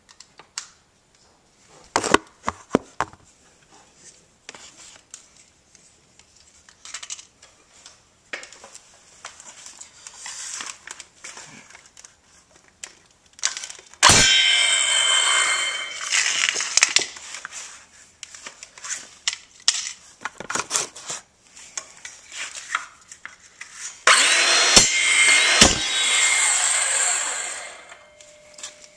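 Circular saw cutting into a metal hard drive in two bursts of a few seconds each, one about halfway through and one near the end. Before them, scattered knocks and clatter of the drive being handled.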